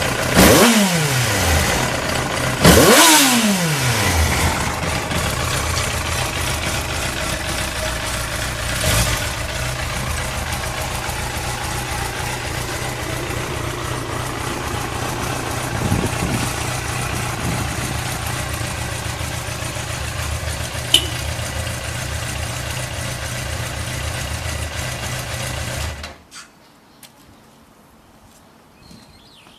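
Yamaha YZF-R1 (5PW) inline-four motorcycle engine, heard through its exhaust, blipped twice in quick succession, each rev falling straight back to idle. It then idles steadily and is switched off near the end.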